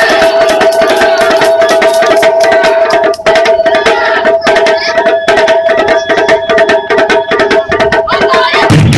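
Japanese taiko drums played by an ensemble in a fast, dense run of strikes. A steady high note is held over the drumming and stops near the end.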